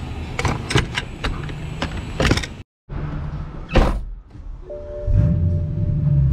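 BMW E92 M3's V8 running low under a run of sharp clicks and knocks, with a short whoosh near the middle. Background music with a heavy bass comes in about five seconds in.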